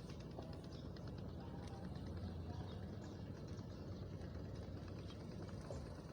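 Evening riverside ambience: a steady low hum with many small scattered clicks and short chirps over it.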